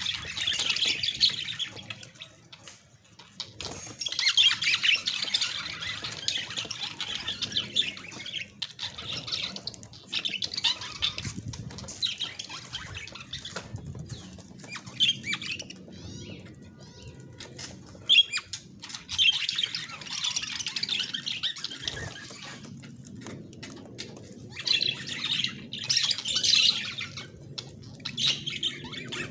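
Budgerigars chattering, warbling and squawking, in stretches of a few seconds with quieter gaps between.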